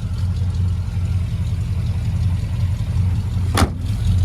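Dodge Ramcharger's carbureted engine idling steadily just after a cold start, having sat all winter. A single sharp click is heard about three and a half seconds in.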